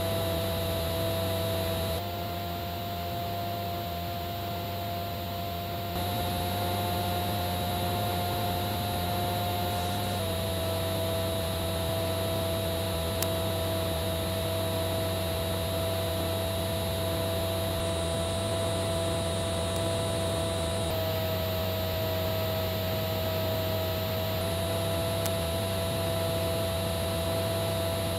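Steady hum with hiss and a few fixed tones, no speech; its pitch and level shift slightly every few seconds.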